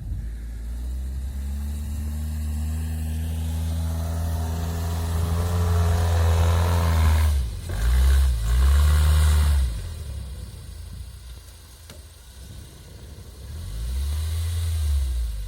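The all-terrain vehicle's Toyota 1NZ-FE 1.5-litre four-cylinder petrol engine works hard under load while it climbs a steep snowy slope. The revs are held high for several seconds and break twice about eight seconds in. They then fall away and rise again near the end.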